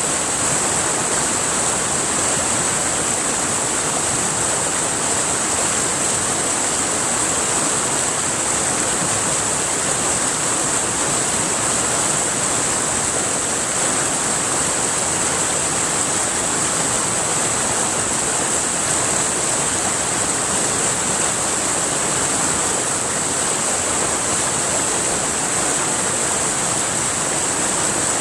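River water flowing and rushing, a steady, unbroken wash of water noise with a constant high hiss above it.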